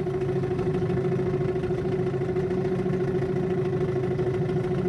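A small boat's outboard motor running steadily, its pitch holding even without revving up or down.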